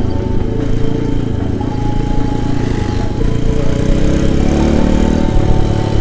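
Small single-cylinder motorcycle engine running while riding, its revs rising about four seconds in.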